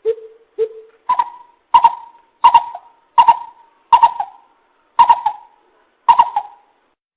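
Coucal calling in a series of short hoots, played as a lure call: two softer, lower hoots, then seven louder, higher hoots about one a second.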